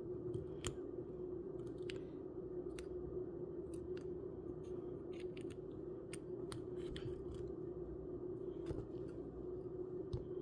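Small plastic parts of a miniature kit clicking and tapping as they are worked and pushed into place, scattered clicks over a steady low hum.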